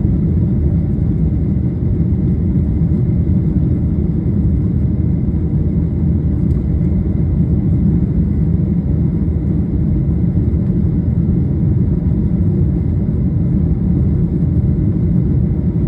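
Boeing 737-800's CFM56-7B jet engines at takeoff thrust, heard as a steady, loud, low rumble with no rise or fall.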